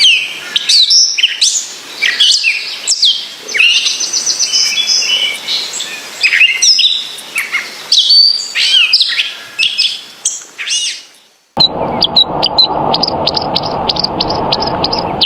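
Small songbird singing a fast, varied song of whistles, trills and chirps. About eleven seconds in the sound cuts abruptly to a run of short, high chirps repeated several times a second over a steady background hiss.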